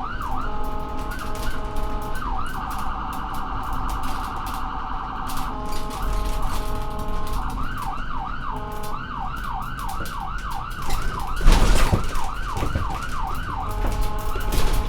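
Electronic emergency-vehicle siren switching between modes: a fast rising-and-falling yelp, a pattern of short stepped tones, and a rapid warble, over a steady low engine rumble. A brief loud thump about eleven and a half seconds in.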